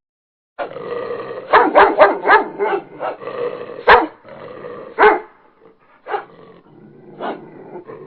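A dog growling with a run of sharp barks, starting about half a second in. The loudest barks come around four and five seconds in, then a few weaker ones as it tails off.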